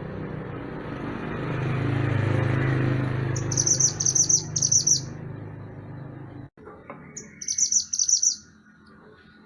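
Mantenan gunung bird singing two bursts of rapid high chirps, one a few seconds in and one near the end. A steady low rumble runs underneath the first part and cuts off suddenly about two-thirds of the way through.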